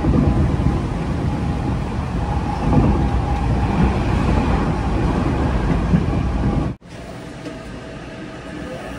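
A Tokyo Metro Hanzomon Line electric train heard from inside the carriage, running at speed with a loud, dense rumble of wheels on rails. Near the end the sound cuts abruptly to quieter running as the train is at the station platform, with a faint steady tone.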